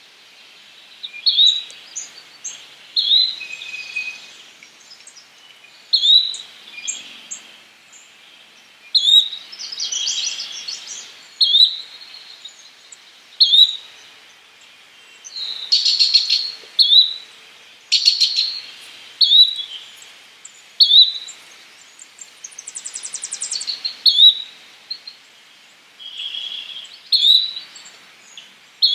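Yellow-bellied flycatcher calling: a short, sharp note repeated every second and a half to two seconds. Other birds join in with buzzy notes and a fast trill.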